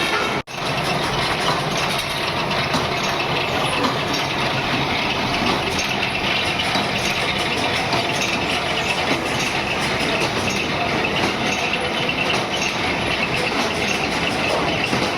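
Factory machinery running, a steady mechanical din that cuts in just after a brief break about half a second in.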